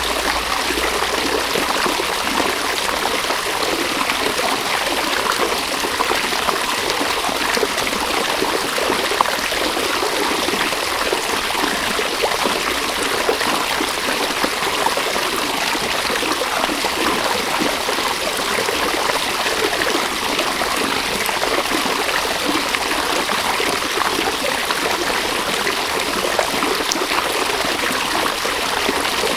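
Steady river water running and trickling over stones.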